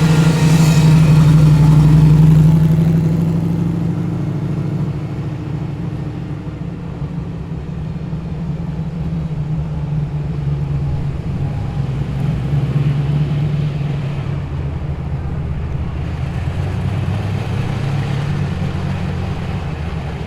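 Holden Torana SS hatchback's engine rumbling as the car drives past, loudest in the first few seconds and then fading. Other arriving cars' engines keep running underneath, swelling a little twice later on.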